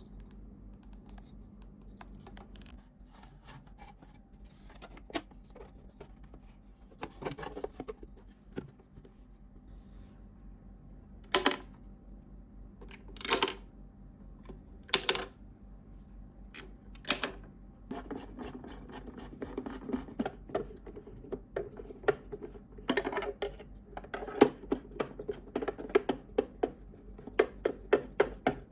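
Hand work at a bench: scattered clicks, then four short, sharp scraping strokes about two seconds apart, then a fast run of small scraping and clicking strokes.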